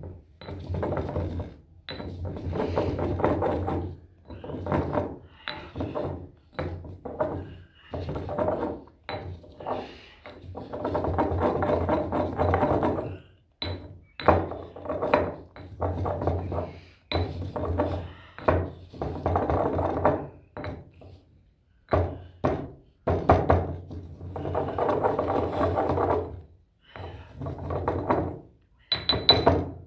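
Pestle grinding and pounding dried chilis in a mortar: irregular grinding strokes of about a second each, with sharp knocks in between.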